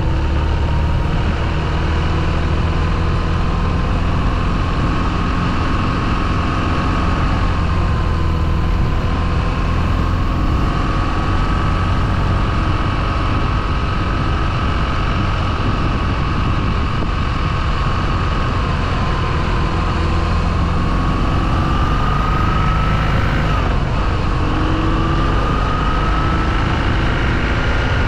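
Motorcycle engine running steadily under way, its pitch drifting slowly up and down with speed, over a low rumble of road and wind noise.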